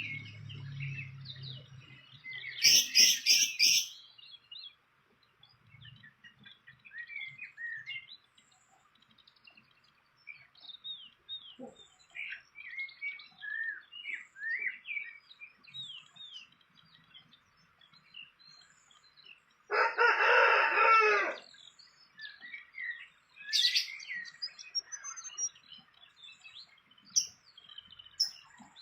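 Small birds chirping on and off throughout, with a harsh rasping burst about three seconds in and a rooster crowing once, loudly, about twenty seconds in.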